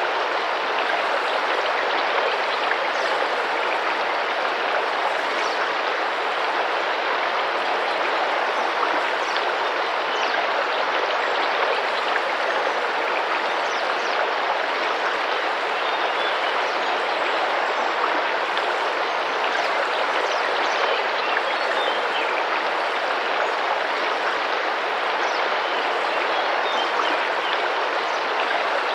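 Tropical rainforest river water rushing and splashing steadily, a continuous even flow without breaks.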